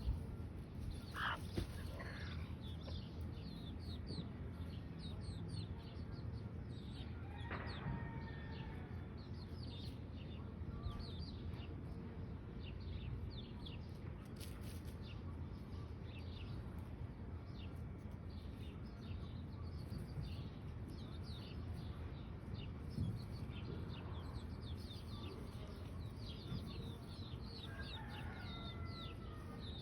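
Chicks peeping in a rapid, continuous stream of short high chirps. A few longer, lower calls from an adult chicken come about a second in, about eight seconds in and near the end, all over a low steady rumble.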